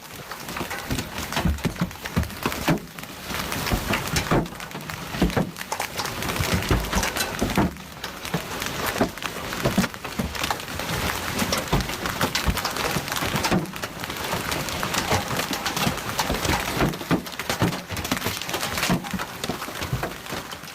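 Windstorm with rain: a continuous rushing noise broken by many scattered knocks and clatters.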